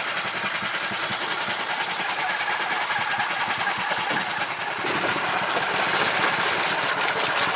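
The small engine of a homemade karakat bog buggy running with a fast, even knocking beat, rising in level about five seconds in as it is given more throttle, its firing strokes growing more distinct near the end.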